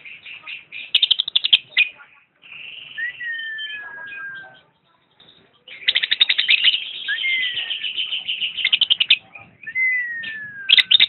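Lovebird chattering: rapid trains of high chirps, mixed with several falling whistle-like notes, with a short pause about halfway through.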